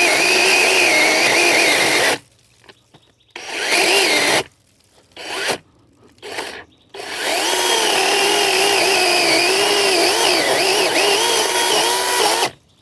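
DeWalt 8-inch cordless compact chainsaw cutting a thick oak branch in several trigger pulls: a run of about two seconds, three short bursts, then a long run of about five seconds. The motor's pitch wavers and dips as the chain loads up in the cut.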